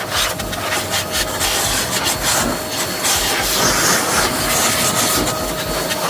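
Rapid, irregular scrubbing and rubbing of a brush on engine-bay parts, a continuous rasping noise, with a faint steady hum underneath.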